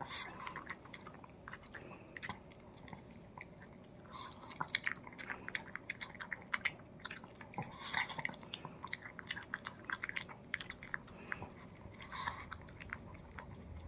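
A Pomeranian dog eating dog-friendly tteokguk (rice-cake soup): irregular chewing and mouth clicks, busier from about four seconds in.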